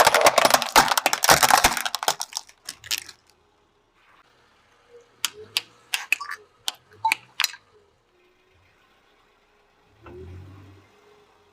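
Brittle things being crushed: a dense burst of crackling and crunching for about two seconds, then a handful of separate sharp cracks a few seconds later.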